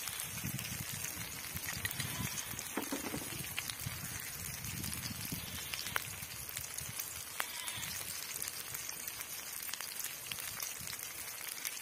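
Onion-tomato masala frying in oil in a metal wok, a steady sizzling crackle with a couple of sharp clicks a little past the middle.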